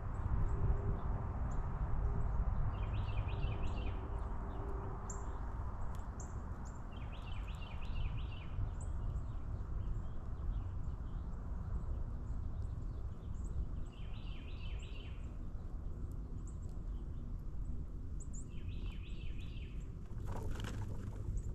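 Small birds at backyard feeders calling: four short trilled bursts spaced several seconds apart, with scattered high chips between them, over a steady low background rumble. A brief noise cuts in near the end.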